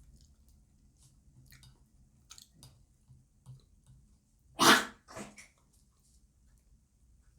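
A dog barks twice in quick succession, the first bark loud and the second quieter, about four and a half seconds in.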